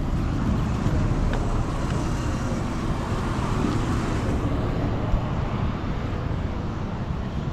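Road traffic noise: a steady low rumble of passing vehicles, swelling a little between about two and four seconds in.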